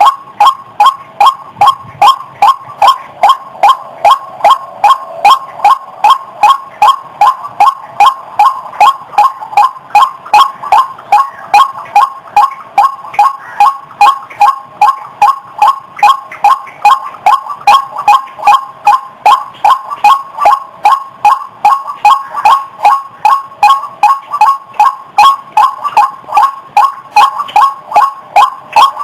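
White-breasted waterhen (ruak-ruak) calling: one short, loud call note repeated in an unbroken, even rhythm, about two to three notes a second.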